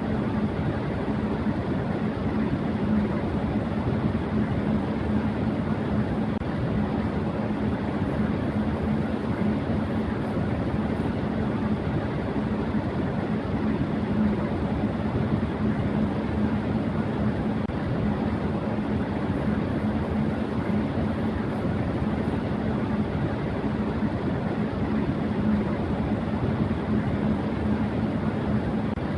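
Electric fan running at high speed: a steady, even rush of air with a constant low hum from the motor underneath.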